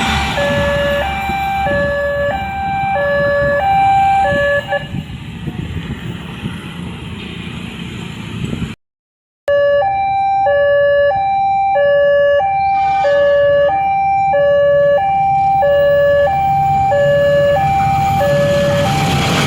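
Railway level-crossing warning signal sounding an alternating two-tone electronic chime, a low and a high tone about once a second each. For the first few seconds it plays over the rumble of a passing train. It drops out for about half a second near the middle, then carries on.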